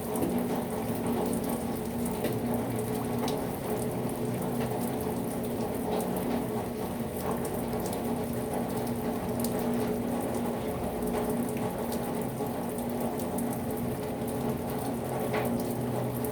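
Heavy rain falling steadily, with scattered drops ticking sharply. A steady low drone runs underneath.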